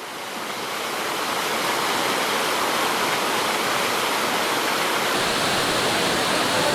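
Waterfall: a steady rush of falling water that fades in over the first two seconds.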